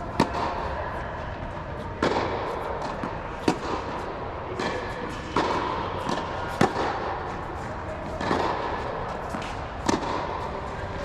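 Tennis balls struck by rackets during a drill: six sharp pops, one every one to two seconds, over steady background noise.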